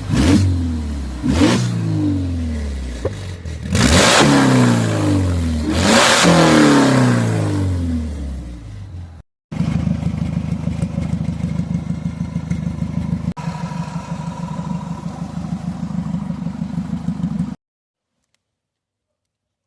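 Supercharged four-cylinder engine with dual exhaust blipped hard about four times, the revs falling away after each, then idling steadily with an even pulse. The sound cuts off abruptly near the end.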